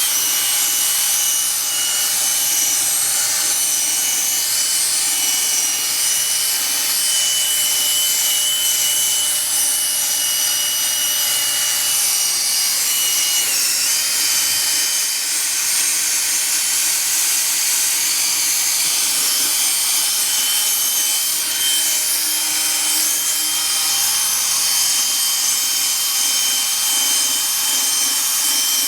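Electric drill running steadily at speed with a foam buffing pad, polishing Meguiar's PlastX into a plastic headlight lens. Its high motor whine holds steady, with a brief dip about halfway through.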